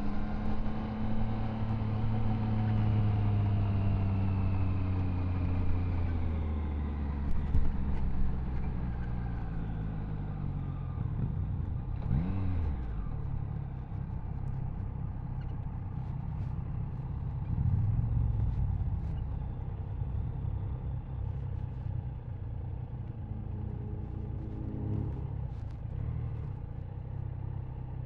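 Triumph Tiger Sport 660's three-cylinder engine slowing down, its pitch falling over several seconds. It gives a brief rev about twelve seconds in, then runs low and steady.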